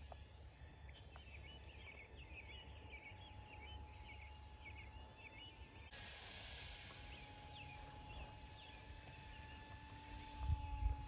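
Small birds chirping repeatedly over a faint, steady high whine from the RC plane's electric motor flying at a distance. Low wind rumble on the microphone runs underneath, with a few louder gusts near the end.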